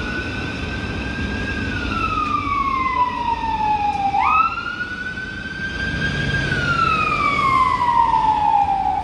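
Emergency vehicle siren wailing: each cycle jumps quickly up in pitch, holds, then slides slowly down, repeating about every four and a half seconds, with a new rise starting at the very end. A low rumble of traffic lies underneath.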